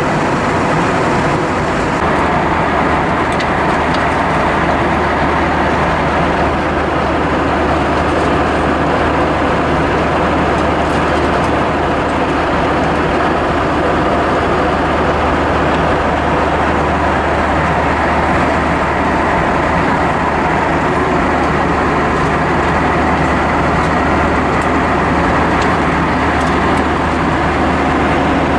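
Steady cabin noise of an Airbus A320-232 in flight, the drone of its engines and the rush of air past the fuselage, with a low hum that sets in about two seconds in.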